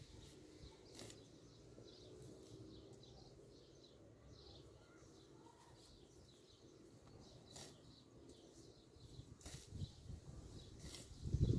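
Faint outdoor ambience with scattered bird chirps and a few sharp clicks.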